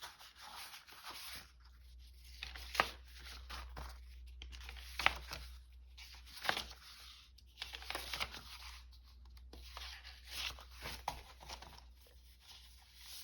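Sheets of paper rustling and crinkling as they are handled, shuffled and stacked, in a string of irregular short swishes.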